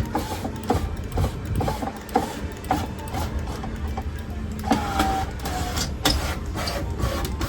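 Irregular clicks, knocks and short squeaks from a truck's driver's door window being worked by hand, the glass and its rubber seal shifting in the door.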